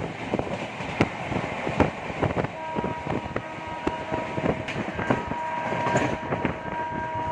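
Passenger train running along the track, its wheels clicking irregularly over rail joints under a steady rumble, with a faint steady tone sounding through much of it.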